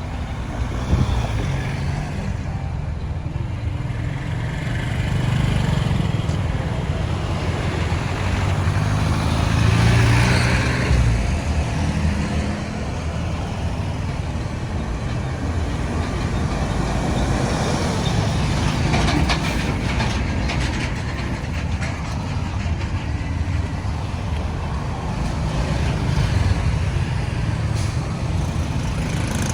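Road traffic noise: engines and tyres of passing vehicles, with a steady low rumble and one louder vehicle passing about ten seconds in.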